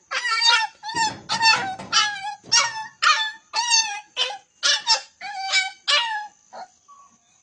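A puppy crying in a quick series of high-pitched yelps, about two a second, which fade out about six seconds in.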